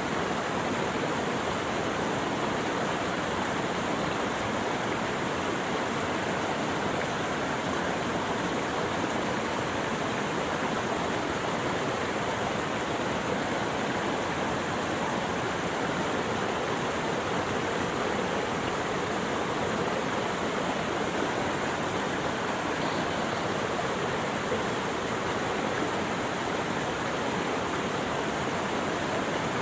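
Running water: a steady, even rush with no breaks.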